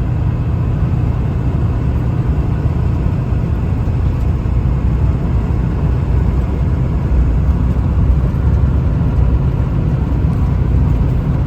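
Steady in-cab engine rumble and road noise from a Ford F350 pickup with a 7.3 turbo diesel, driving along.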